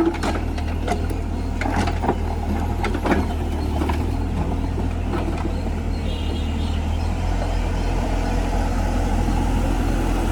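Diesel engine of a mini excavator running steadily, with a run of sharp knocks and clanks in the first few seconds that die away.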